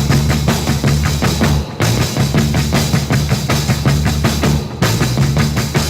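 Late-1950s rock and roll band playing an instrumental stretch with no vocals: drum kit keeping a steady driving beat over a walking bass line and electric guitar.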